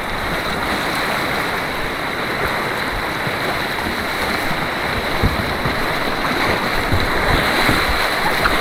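Fast white water on an artificial white-water course, a steady rushing noise that grows slightly louder near the end.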